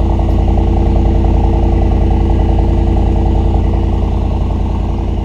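A 2022 Mercedes-AMG SL 63's twin-turbo V8 idling steadily just after start-up, getting slightly louder in the first second.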